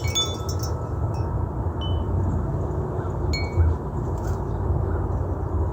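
Wind chimes tinkling, with a few scattered high, ringing notes, over a steady low rumble of wind on the microphone.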